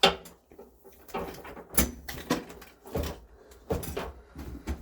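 Socket wrench with an extension on a water heater's anode rod hex head: a series of separate metallic clunks and knocks, about one every half second to second, as the stuck rod is worked loose.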